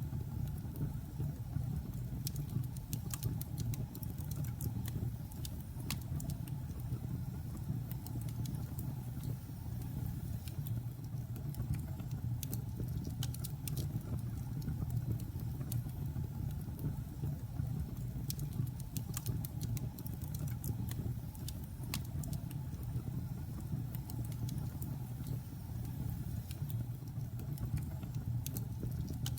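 Logs burning in a fireplace: a steady low rumble from the fire with scattered sharp crackles and pops at irregular intervals.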